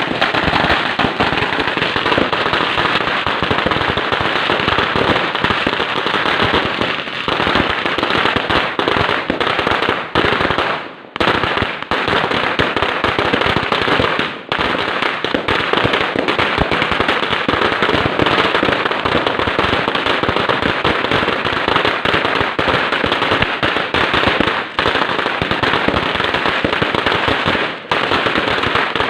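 A string of Chinese firecrackers going off in a fast, continuous rattle of cracks, with a brief lull about eleven seconds in.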